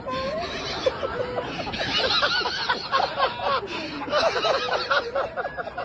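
Several people's voices laughing and exclaiming over one another, in quick repeated bursts.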